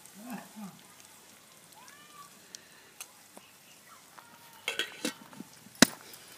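Okra frying in a steel bowl over a wood fire, a faint sizzle, with a few clicks of utensils around five seconds in and one sharp tap near the end.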